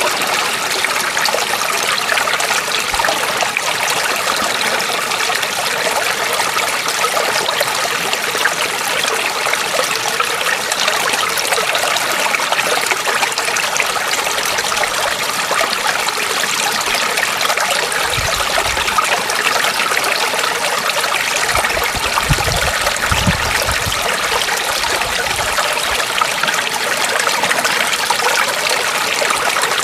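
Water trickling and flowing steadily in a small stream, an even rushing with no breaks. A few soft low rumbles come through about two-thirds of the way in.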